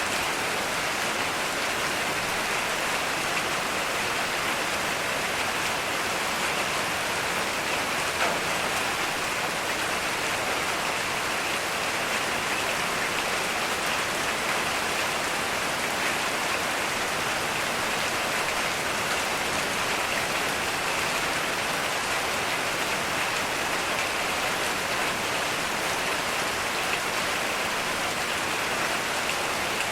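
Heavy rain falling steadily, an even hiss of many drops with no let-up. One sharper tap stands out about eight seconds in.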